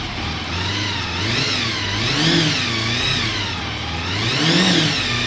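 Quarter-litre Honda motorcycle engine being revved, its pitch climbing and falling back in waves, with the highest revs about two and four and a half seconds in.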